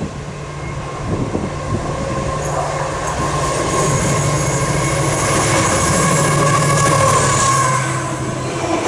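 A Colas Rail Class 70 diesel locomotive runs through at speed hauling an engineers' train of wagons loaded with concrete sleepers. Its steady engine drone and the rumble of wheels on rail grow louder as it approaches, peak as the locomotive passes, and ease slightly as the wagons run by near the end.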